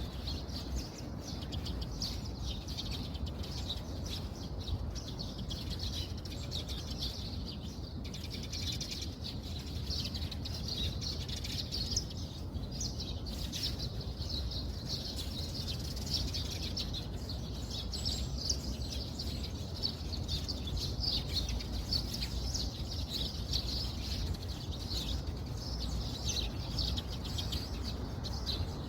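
Steady rain noise with small birds chirping densely and continuously over it.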